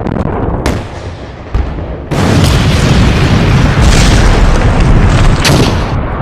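Explosion sound effects: Dalek casings self-destructing. Several sudden blasts follow one another, and about two seconds in they merge into one long, heavy rumbling blast.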